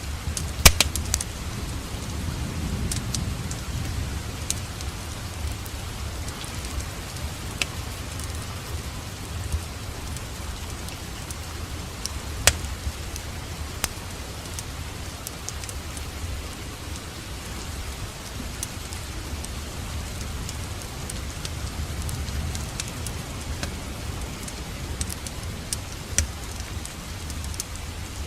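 Steady rain mixed with a crackling wood fire: an even hiss over a low rumble, with sharp pops scattered through, the loudest a little under a second in, about halfway, and near the end.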